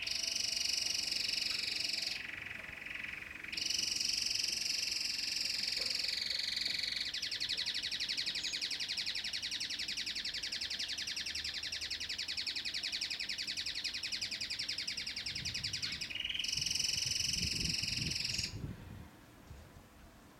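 Domestic canary singing a long, high-pitched song of fast rolling trills. The song has a short break about two seconds in and stops near the end.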